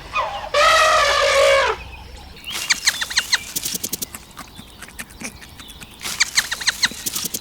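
Farmyard fowl calling: one long, slightly falling call about half a second in, then two bursts of rapid rattling calls.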